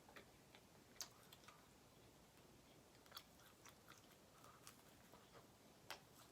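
Faint chewing and mouth sounds of someone eating a samosa, with scattered small crunchy clicks and two sharper ones, one about a second in and one near the end.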